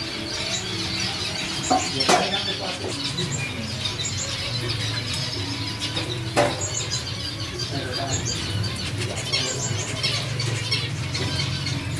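Black-headed Gouldian finch singing: a run of quick, high, squeaky chirps and trills that keeps going throughout. Two sharp clicks, about two seconds in and about six seconds in, over a steady low hum.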